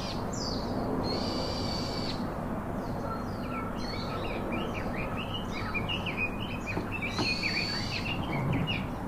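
Songbirds singing: a buzzy high trill about a second long near the start and again near the end, with a run of quick, short chirps between them.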